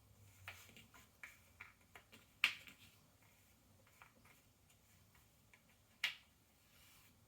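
Ravensburger cardboard jigsaw puzzle pieces clicking and tapping on a table as they are handled and fitted: a run of light clicks in the first two seconds, a sharper click about two and a half seconds in and another about six seconds in.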